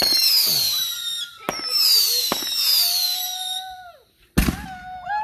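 Fireworks going off: several whistling fireworks with high, slowly falling whistles that overlap, and sharp cracks about a second and a half and two and a half seconds in. After a brief lull, the loudest bang comes a little after four seconds in.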